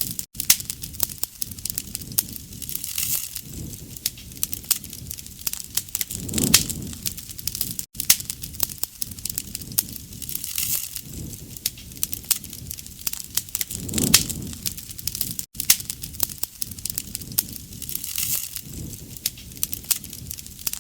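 Wood campfire crackling and popping, with a soft low rush of flame swelling up every three to four seconds. The sound cuts out for an instant three times.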